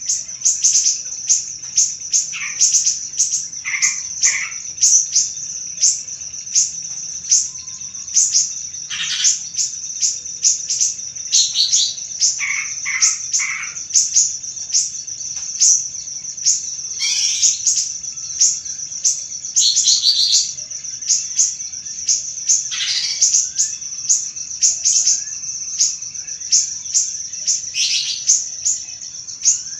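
Small songbirds chirping continuously: a rapid run of very high, short chirps, several a second, broken now and then by lower calls that slide downward in pitch. This is a lure recording played to set caged golden-bellied gerygones singing.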